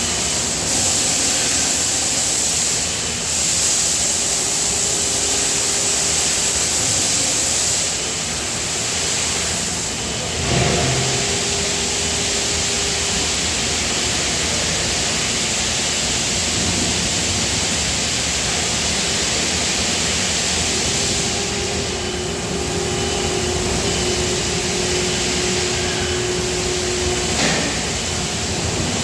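Steady machinery noise with a strong hiss, with faint hums that come and go and a brief knock about ten seconds in.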